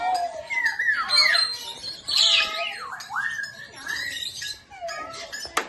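Many parrots calling and squawking at once, their harsh, sliding calls overlapping one another. A single sharp click comes near the end.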